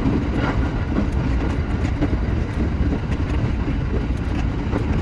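Shinano Railway SR1 series electric train running along the line, heard from its front end: a steady low rumble with scattered clicks from the wheels on the track.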